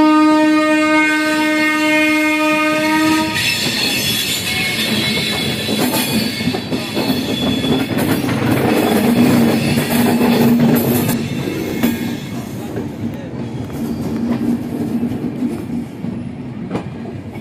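A train horn sounds one steady blast that stops about three seconds in. After that comes the continuous rumble and rattle of a passenger train running on the rails, heard from aboard, with occasional wheel clicks.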